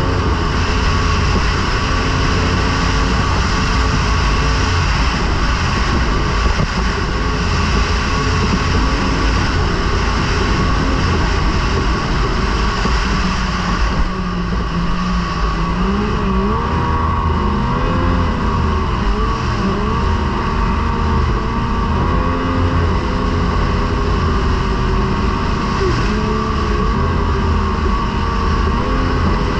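Racing outboard motor of a T850 race boat running hard at high revs, heard loud and close on board. Its pitch holds steady at first, then wavers up and down from about halfway through as the revs rise and fall.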